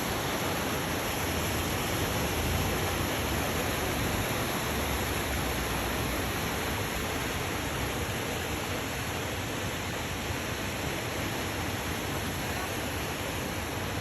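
Steady rushing of a waterfall in a stone gorge: an even, unbroken noise.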